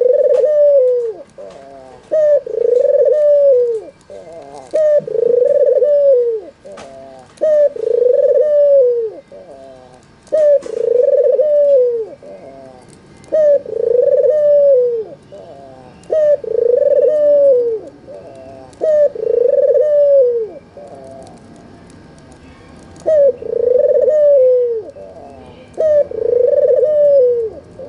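White red-eyed albino puter dove (domestic ringneck dove) cooing over and over, about one coo every two to three seconds: a short note, then a longer one that falls away, with a brief pause about two-thirds of the way through.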